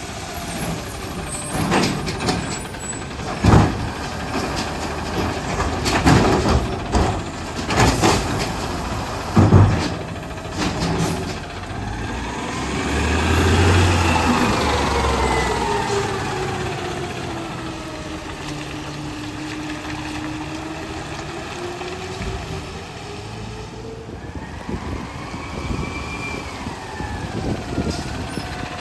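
Garbage truck serving a cart: a series of loud bangs and clatter as the trash is shaken and slammed out, then the engine revs and the hydraulic pump whines up and back down in a long sweep, with a second, shorter sweep near the end.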